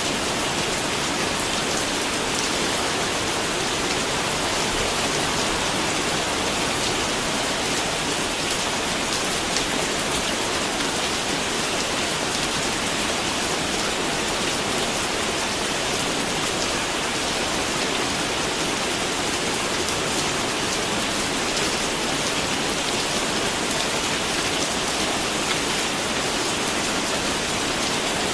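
Steady rain falling, an even hiss of rain with many individual drops pattering on a surface, unchanging throughout.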